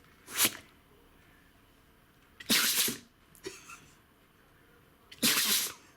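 A dog sneezing three times in a row, each sneeze short and sharp and a couple of seconds apart, with two faint smaller sounds just after the second.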